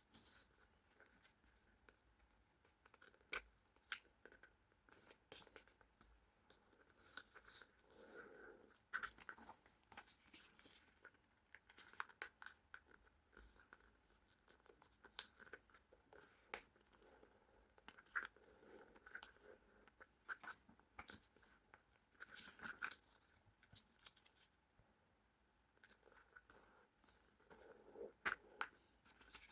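Faint rustling and crackling of a sheet of paper being folded and creased by hand into a paper airplane, in short irregular strokes and sharp snaps.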